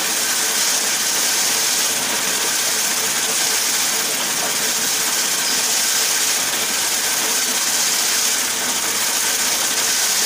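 Raffia string winding machine running steadily: an even, hissing mechanical noise that keeps the same level throughout.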